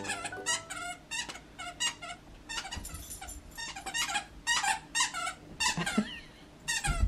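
Miniature schnauzers whining and yipping in a quick run of short, high-pitched squeaky cries, about two a second.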